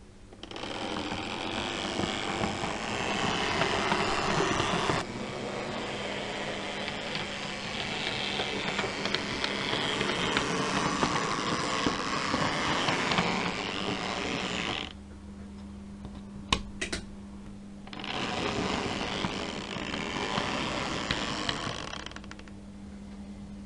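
A model train running along the track: a steady whirring rumble that stops about 15 seconds in, two sharp clicks in the pause, then the train runs again for a few seconds, all over a steady low hum.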